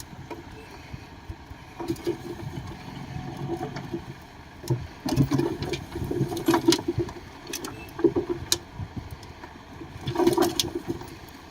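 Shantui DH17C2 bulldozer working: its engine runs under load amid repeated knocks and clatter, with louder surges about five seconds in and again near the end.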